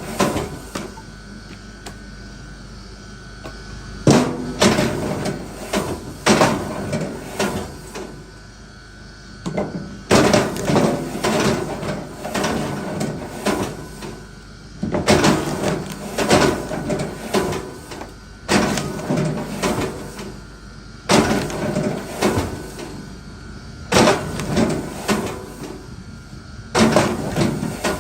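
Wooden knocks and clatter of firewood pieces being handled and knocked together, in repeated bursts every couple of seconds.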